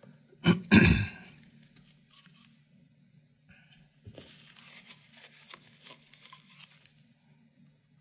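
Handling noises at a workbench: two sharp knocks near the start, then a rustling hiss for about three seconds with small clicks in it, over a faint steady low hum.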